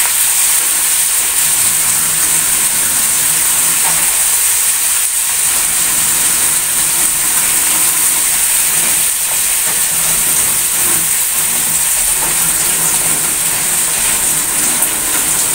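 Kangkong (water spinach) sizzling steadily in hot oil in a wok, mixed with tap water running into a plastic basin.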